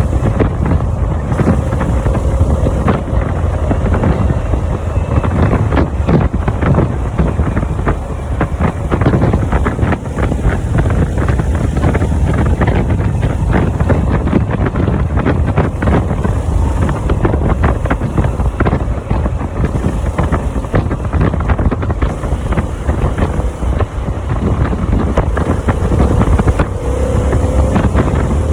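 Harley-Davidson motorcycle's V-twin engine running under way, with heavy wind buffeting on the microphone. The engine note glides in pitch briefly near the start and again near the end.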